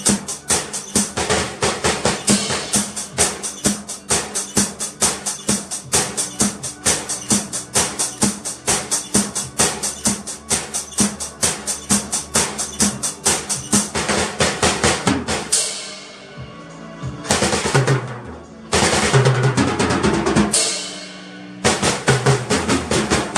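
Drum kit played by a learner: a fast, even beat of about five strokes a second, then from about fifteen seconds in a few loud fills broken by short pauses.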